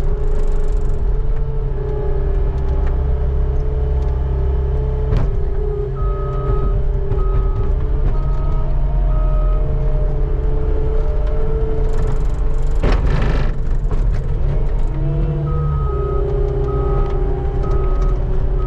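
Skid steer engine running hard, its pitch shifting as it works, with the reversing alarm beeping in two runs, about a third of the way in and again near the end. A brief scraping rush, the bucket on the pavement, comes about two-thirds through.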